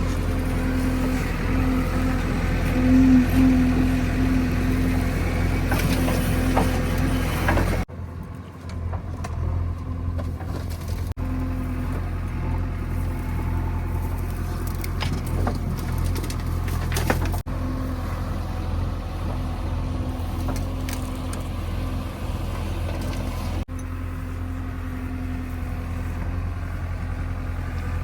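Heavy diesel engine of working machinery running steadily at a constant pitch, with several abrupt breaks where the sound jumps.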